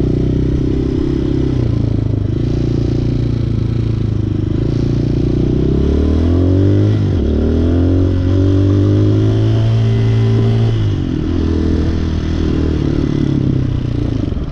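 Motorcycle and traffic engines running at a stopped intersection; the engine pitch climbs about halfway through, drops suddenly, then holds steady and settles lower near the end.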